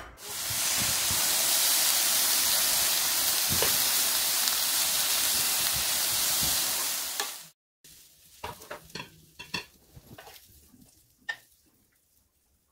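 Diced meat sizzling steadily in a frying pan, with a few knocks from stirring. The sizzle cuts off abruptly about seven seconds in. Quieter scattered clicks and scrapes follow as a wooden spatula scrapes the meat from the pan onto ceramic plates.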